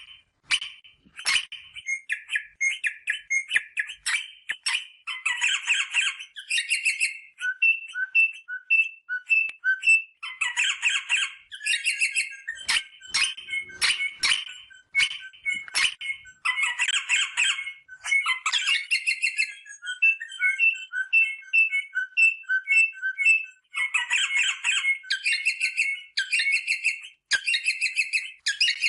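Rosella parrot calling: sharp squawks and chips, dense chattering bursts every few seconds, and runs of short, evenly spaced piping notes between them.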